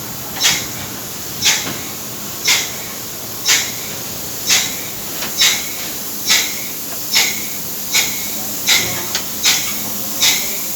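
Ship's engine-room machinery running with a steady drone, over which a short hiss sounds about once a second, coming a little faster in the second half.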